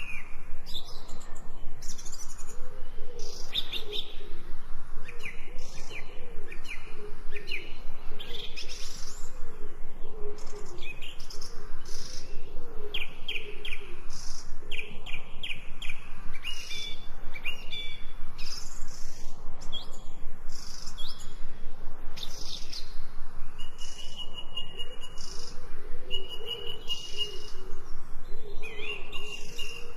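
Several birds chirping and singing, a dense mix of short chirps and quick trills with a few longer held whistled notes.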